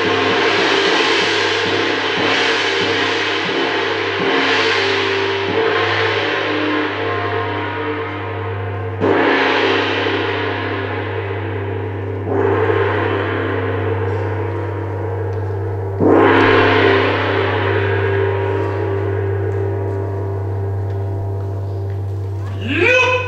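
A large gong struck again and again, each stroke ringing on long and overlapping the next, with fresh strikes every two to four seconds. Near the end, a quick rising swell leads into another strike.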